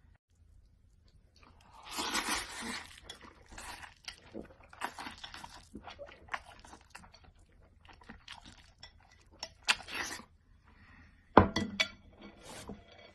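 Eating and tableware noises: irregular crunching with clinks of dishes and cutlery, and one sharp knock near the end.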